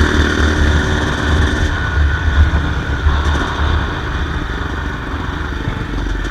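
Yamaha YZ250 single-cylinder two-stroke dirt bike engine running steadily, a little quieter after about four seconds.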